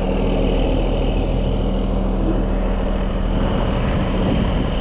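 Truck engine running steadily, driving the Landoll trailer's hydraulics as its axle is rolled backward under the load. A low, even drone with a faint steady high whine over it.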